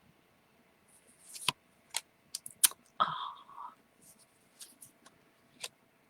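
Playing cards being handled and flicked through: a series of sharp clicks and a short slide of card on card, with a brief louder rustle about three seconds in.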